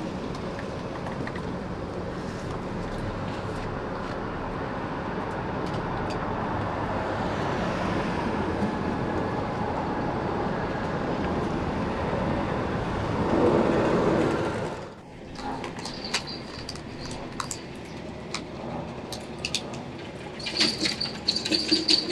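Subway train running with a steady rumble that grows louder, then drops off sharply about fifteen seconds in, followed by scattered clanks and brief high-pitched wheel squeals near the end.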